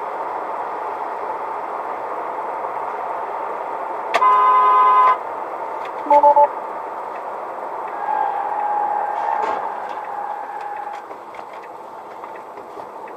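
Car horns sounding over steady traffic noise: one loud blast lasting about a second, then three quick short toots from a different-pitched horn, and later a fainter held tone.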